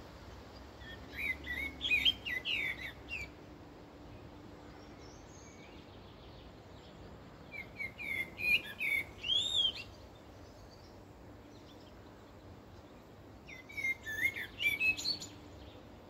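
A songbird singing three short phrases of quick, warbling, whistled notes, each about two seconds long and roughly six seconds apart, over a faint steady hiss.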